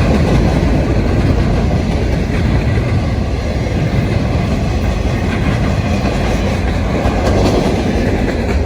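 Freight train rolling past close by: steady, loud rumble of railcar wheels on the rails.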